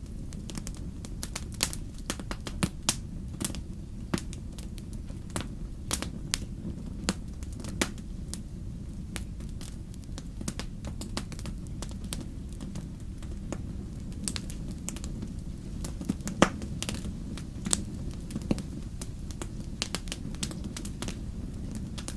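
Wood fire burning in a fireplace: a steady low rumble of the flames with irregular sharp crackles and pops, a louder pop about 16 seconds in.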